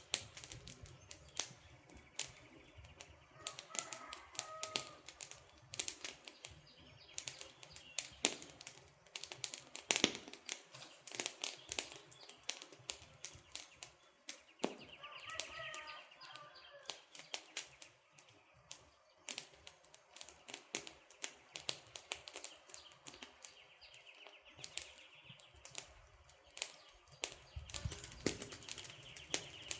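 Wood campfire crackling with irregular sharp pops and snaps. A bird chirps briefly twice, about four seconds in and again near the middle.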